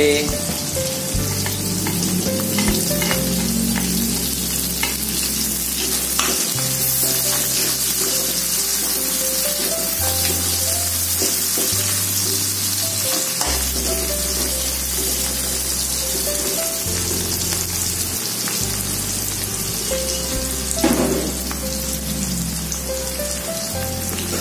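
Chopped onion, garlic, ginger and red chillies sizzling in hot oil in a wok as they are stir-fried. A metal spatula scrapes and taps against the wok now and then, once more loudly near the end.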